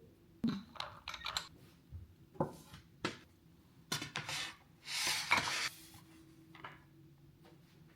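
Kitchen dishes and utensils knocking and clinking, a series of separate light knocks, with a short scraping rustle about five seconds in.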